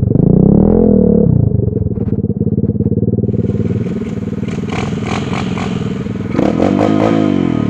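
Pit bike's small single-cylinder engine riding off-road: the revs rise and fall in the first second, it runs steadier, then a burst of throttle near the end falls away.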